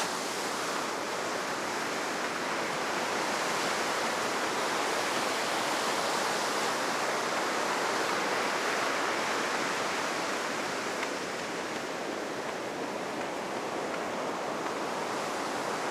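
Heavy surf of high post-typhoon waves breaking on a sandy beach: a loud, steady rush that swells slowly and eases a little later on.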